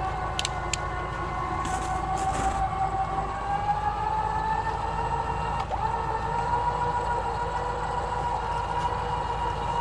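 Tracked recovery vehicle running and crawling, its drive giving a steady high whine that drifts slowly up and down in pitch over a low engine rumble, with a few faint clicks early on.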